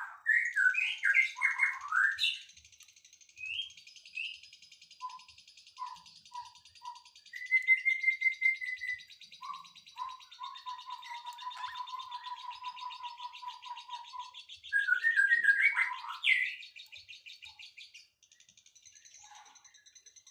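Several songbirds singing together. A fast, high trill runs through most of it, under loud chirps at the start and again about three-quarters through. There are short low whistles and one long, steady whistled note in the middle.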